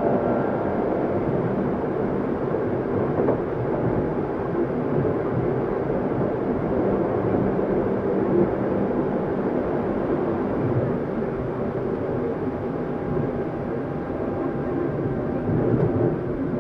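Tokyu 7700 series electric train car running, heard from inside: a steady rumble of wheels on rail. A whining tone fades out just after the start.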